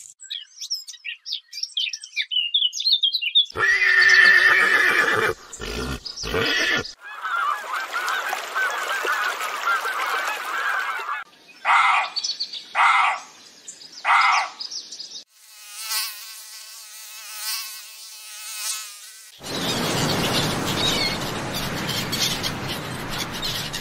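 A run of different animal and bird calls, cut one after another every few seconds. There are high chirps at first, then harsh calls and bird chatter. Three short separate calls follow about twelve seconds in, then a pitched call, and a rougher noisy stretch near the end.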